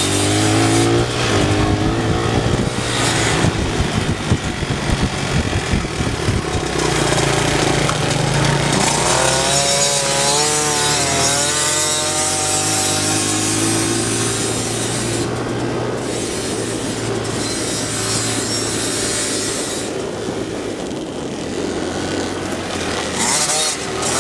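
Dirt bike engines running, the pitch climbing and falling several times as the throttle is opened and closed.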